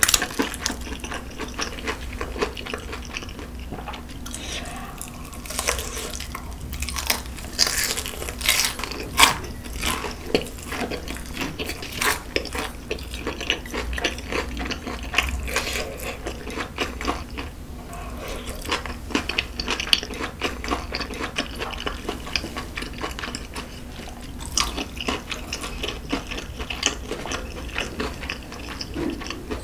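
Close-miked eating: biting and chewing fried chicken and noodles, with wet mouth sounds and scattered sharp clicks and crunches.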